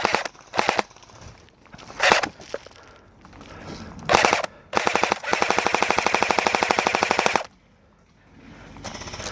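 Airsoft gun firing on full auto: three short bursts of rapid shots, then one long burst of about two seconds.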